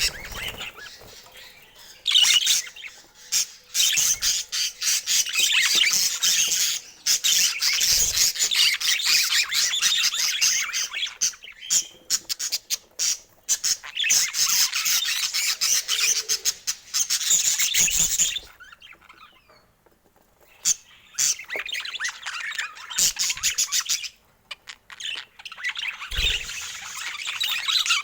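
Budgerigars chattering and chirping in long, rapid bursts, with a brief near-silent pause about two-thirds of the way through.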